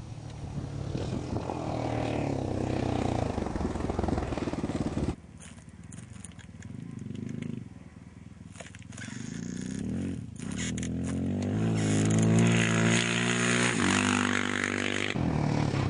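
Engines of rally motorcycles or quads running hard at speed on a special stage. The sound breaks off suddenly about five seconds in and comes back quieter. From about ten seconds in, an engine's revs climb steadily and it grows louder as it accelerates.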